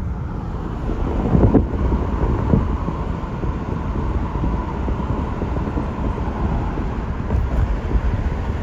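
Steady low road and engine rumble inside a moving car, with a brief louder swell about a second and a half in.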